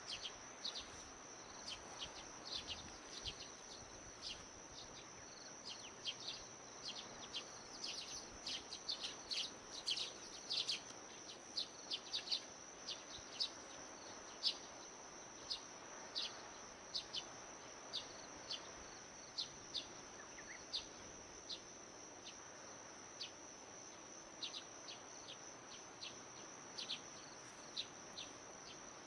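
Insects calling: a steady high-pitched trill, with many short sharp chirps over it that come thickest about ten seconds in.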